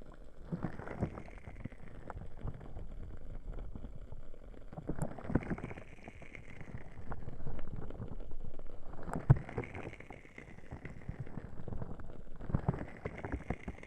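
Ear cupping on a 3Dio binaural microphone: four slow, muffled rushing swells as the ears are covered and uncovered, about every four seconds. The small crackles of a wood wick candle run underneath.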